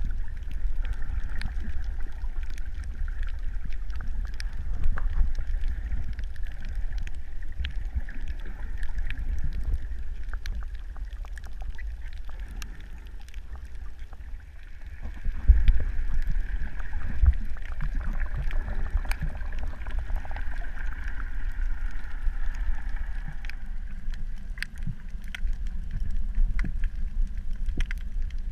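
Muffled underwater sound: a steady low rumble with many small clicks and crackles throughout, swelling louder about halfway through.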